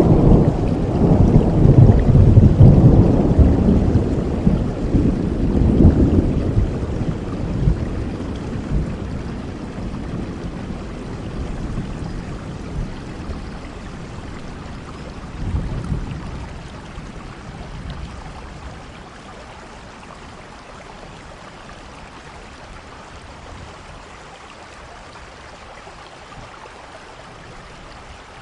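Steady rain falling, with a long roll of thunder over the first several seconds that slowly dies away, and a smaller rumble about sixteen seconds in.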